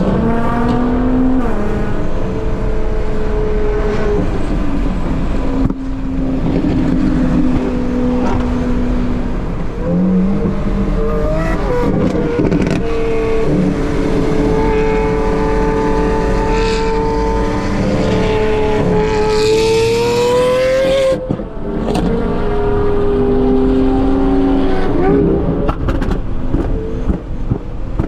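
A high-performance car engine running loud through a sports exhaust, accelerating through the gears. Its pitch climbs steadily, then drops sharply at each upshift, several times over.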